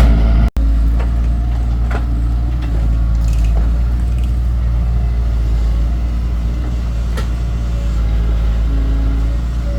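Excavator engine running steadily under work, with a few light clanks; the sound drops out for an instant about half a second in.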